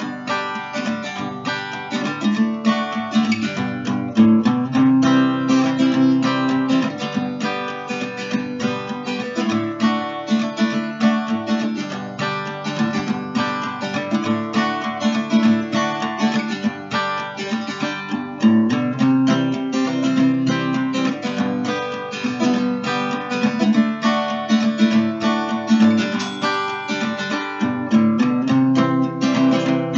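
Background music of strummed and plucked acoustic guitar, chords changing every couple of seconds.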